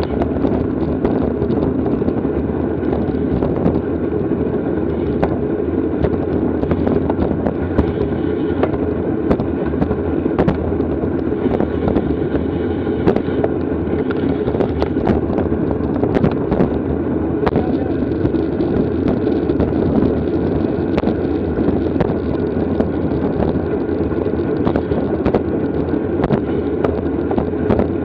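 Wind rushing over the microphone of a camera riding along on a racing bicycle, a steady low buffeting, with many sharp clicks and knocks throughout from rattles and road bumps.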